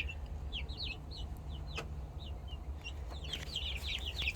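Young chickens chirping and clucking in short, high, falling peeps. There are a few at first, then a busy run of them from about three seconds in.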